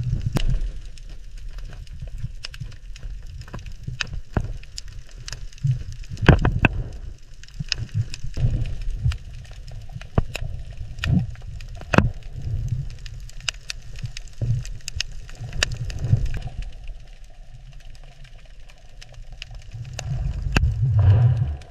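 Irregular sharp clicks and crackles over a low, uneven rumble, with the rumble swelling near the end.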